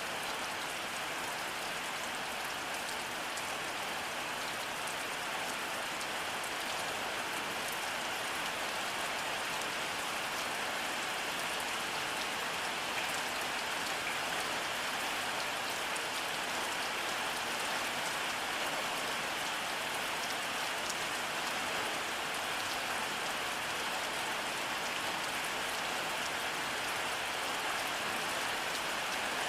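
Steady rainfall, an even patter of drops on a surface.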